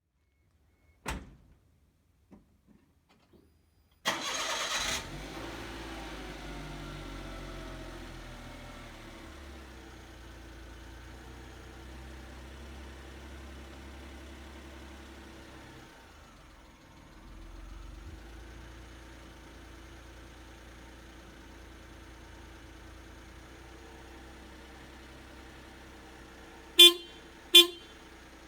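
A knock and a few faint clicks, then the Suzuki Carry DA52T kei truck's 660 cc three-cylinder engine cranks for about a second, catches and settles into an idle that eases down over several seconds. Near the end the horn sounds twice, two short toots.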